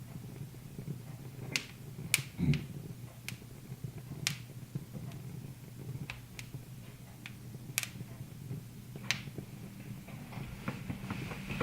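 Wood fire crackling in a fireplace: sharp, irregular pops about once a second over a low steady hum, with a dull thump about two and a half seconds in.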